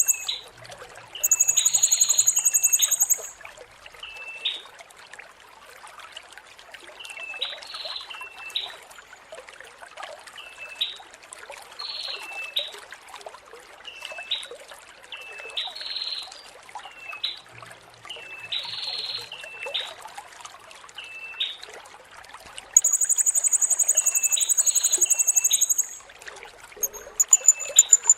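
Blue-crowned hanging parrot (serindit) calling: short high chirps every second or two, and two long, loud, very high-pitched trills, one about a second in and one near the end, over a steady trickle of running water.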